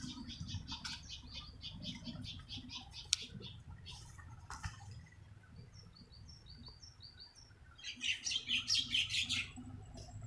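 Small birds chirping in fast runs of short, high notes, sparser in the middle and loudest in a dense burst near the end.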